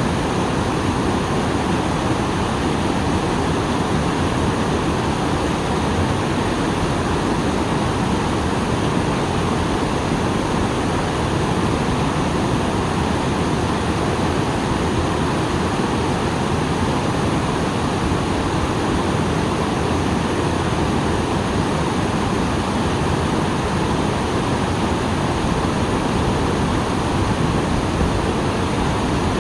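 Small waterfall pouring steadily, its flow swollen after rain: a dense, even rush of falling water that does not change.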